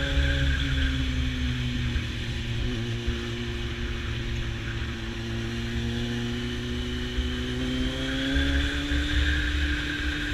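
Motorcycle engine running on the move, its pitch easing down slightly, then rising again about eight seconds in, under a heavy low rumble of wind on the microphone.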